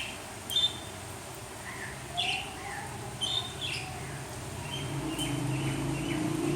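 Small birds, likely lovebirds, giving short high chirps, a few scattered through the first half and a quick run of them later. A low rumble builds under them over the last second or two.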